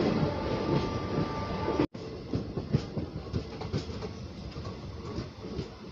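Passenger train running along the track, heard from an open coach doorway: a steady rumble and rush of air, and wheels clacking over the rail joints several times a second. The sound breaks off briefly about two seconds in.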